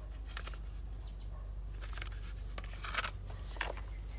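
A few light clicks and rustles of small plastic toy vehicles being handled, over a low steady hum.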